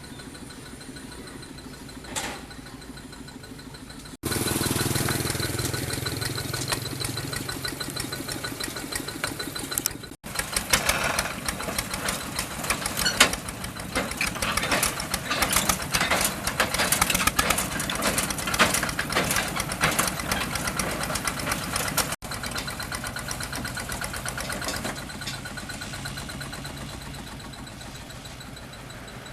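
Quick H 140 rice combine harvester's engine running, heard in several cut-together stretches that get louder about four seconds in. Through the middle stretch the engine is overlaid with many rapid sharp clicks and knocks.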